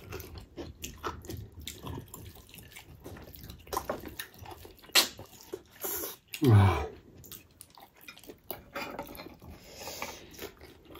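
Close-miked eating sounds: wet chewing and lip smacks as two people eat pork trotters and rice by hand, with many small clicks. About halfway through there is a sharp smack and then a short 'mm' falling in pitch.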